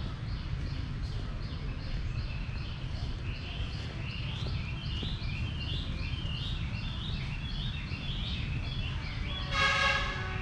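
Songbirds chirping in quick repeated short notes, several a second, over a steady low rumble, with a brief louder pitched call near the end.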